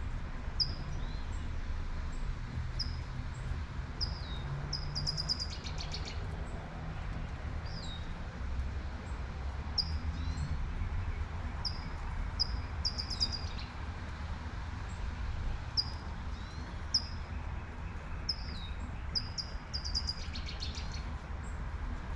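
A songbird calling with short, high chirps every second or two, breaking into a brief rattling trill three times, about seven seconds apart. Underneath runs the steady hiss of light rain and a low rumble of city traffic.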